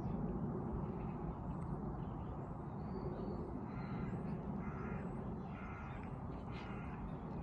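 A few short, harsh bird calls, crow-like caws between about three and seven seconds in, over a steady low rumble.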